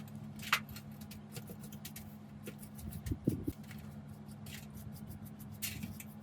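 Small clicks and taps of tools and parts being handled, with a cluster of dull knocks about three seconds in, over a steady low hum.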